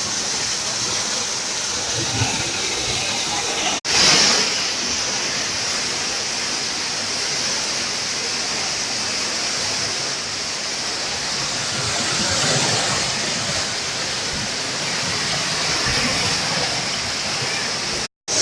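Steady rushing hiss of a waterfall, falling water heard continuously, cut off briefly about four seconds in and again near the end.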